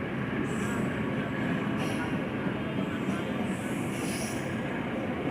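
Railway cars rolling past on the track with a steady rumble, and brief high wheel squeals four or five times.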